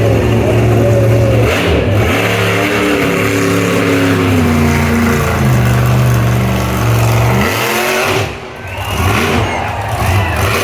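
Monster truck engine revving hard, its pitch climbing and falling as the throttle is worked. The engine drops off briefly about eight seconds in, then revs up again.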